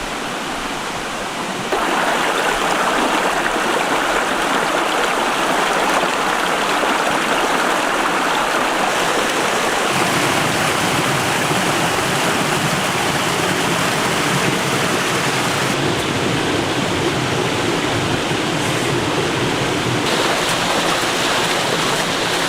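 Rushing water from a stream and waterfall: a steady rush that gets louder about two seconds in and turns deeper about ten seconds in.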